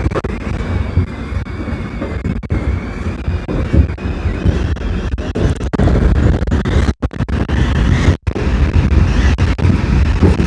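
Subway train running along the track: a steady, loud low rumble with a faint high whine. The sound drops out briefly twice, about seven and eight seconds in.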